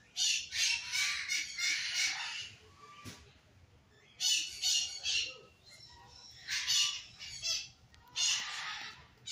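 A flock of parakeets squawking noisily in four bouts of harsh, screeching calls, with short lulls between them.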